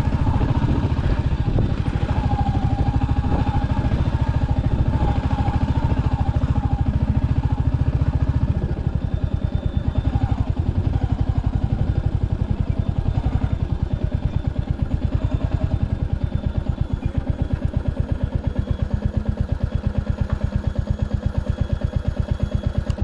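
Royal Enfield Hunter 350's single-cylinder engine running. From about a third of the way in it drops back and settles to an even, slow idle beat.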